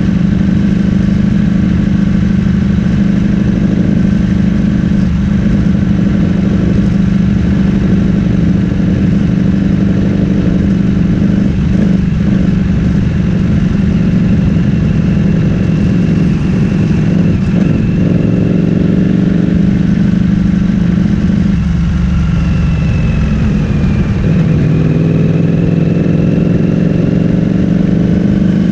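Ducati Streetfighter V4S 1103 cc V4 engine through an Akrapovic full-system exhaust, running at low, steady revs. Near the end the revs dip and then climb steadily as the bike accelerates.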